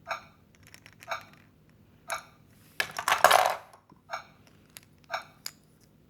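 Interactive toy train's electronic chime sounding about once a second, with a louder clattering rattle of hard plastic about three seconds in.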